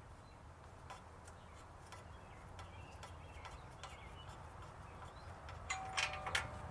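Hand tools and metal parts being handled at a workbench: scattered light clicks, then a quick cluster of louder metallic clinks with a short ring about six seconds in.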